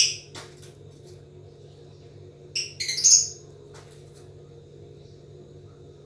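Lovebird giving a few short, shrill chirps: one at the start and two more about three seconds in, with a steady low hum underneath.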